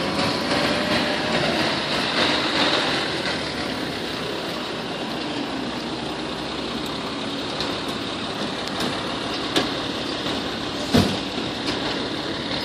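Fire engine's diesel engine running at low speed, with a couple of sharp knocks late on, the loudest about eleven seconds in.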